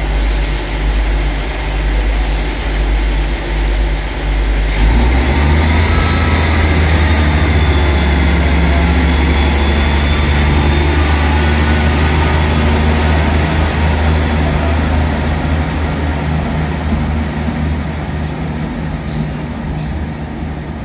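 Diesel passenger train pulling out of the station. Its engine note steps up sharply about five seconds in, a rising whine follows, and the sound then slowly fades as it draws away.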